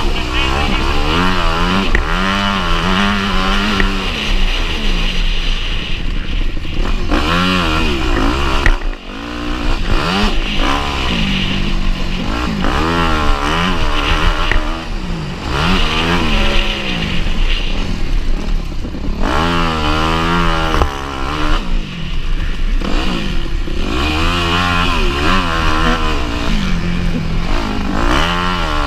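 Motocross bike engine revving up and down over and over as it is ridden hard around a race track, with a brief drop in sound about nine seconds in.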